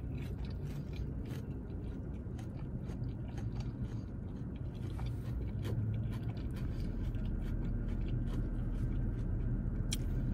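Close-miked chewing of a chicken pesto pita wrap, with small wet mouth clicks throughout and a sharper one near the end.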